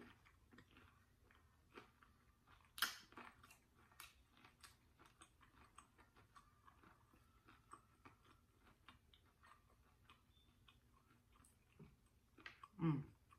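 Quiet close-up chewing of a crunchy hard-shell taco: many small mouth clicks and smacks, with one loud crunch about three seconds in. A short falling sound of the eater's voice comes near the end.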